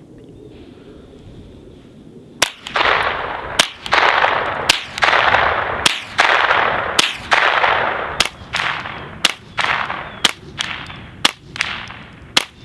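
Ten shots from an integrally suppressed Ruger 10/22 .22 rifle, about one a second. The first five are supersonic rounds, each trailed by a long rushing echo. The last five are subsonic, with much shorter, fainter tails, the quieter sound of suppressed subsonic ammunition.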